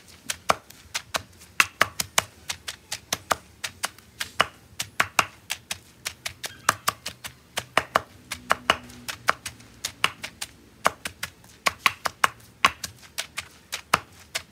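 Pestle pounding green papaya salad in a mortar: quick, uneven knocks, several a second, as the ingredients are bruised and mixed together.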